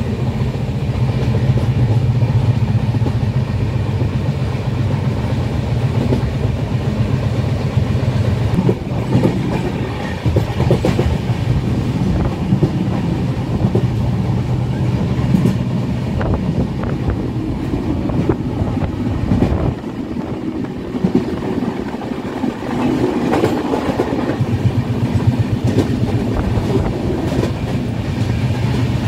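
Indian express train running along the track: a steady low rumble with scattered knocks and clatter from the wheels and carriages. The rumble eases briefly about twenty seconds in.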